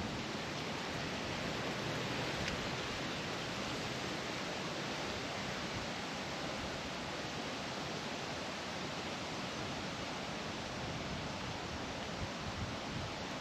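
Wind blowing steadily, an even rushing hiss that holds without let-up.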